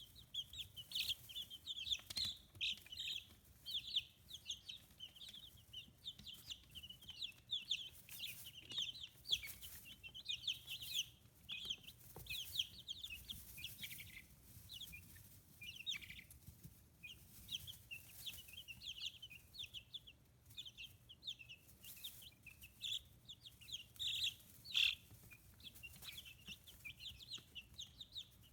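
A brood of 15-day-old chicks peeping continuously: many short, high chirps overlapping without pause.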